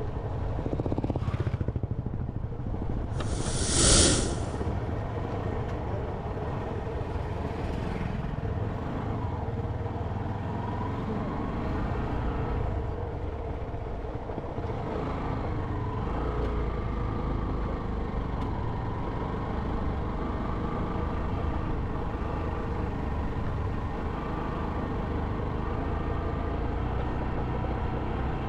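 Motorcycle engine running while riding, with steady road and wind rumble. A loud hiss about three to four seconds in.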